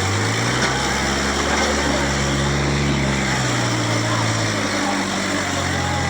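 Diesel tractor engine running steadily, its pitch shifting a little about half a second in and again about three and a half seconds in.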